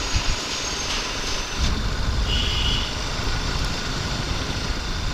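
Motorcycle running on the road with steady rumbling road and wind noise, and a brief faint high-pitched beep about two seconds in.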